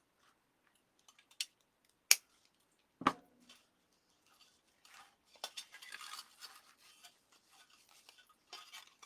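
Handling of deco mesh wreath materials on a work table: a couple of sharp clicks and a knock, then scratchy, crinkly rustling as the mesh and ties are worked.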